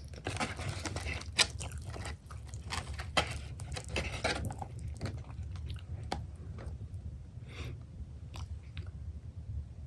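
Close-miked chewing of pepperoni pizza, with crisp crunches from the crust that come thickly in the first half and thin out into softer chewing. The loudest crunches come at about one and a half and three seconds in.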